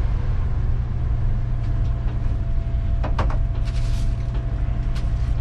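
Vehicle engine running steadily with a heavy low rumble and a faint steady whine, and a brief higher sound about three seconds in.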